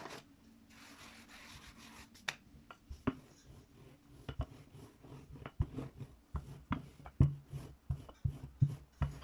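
Dough handling: a brief soft hiss as the rolled dough is dusted with flour, then a run of irregular light knocks and rubbing as the thin dough sheet is worked.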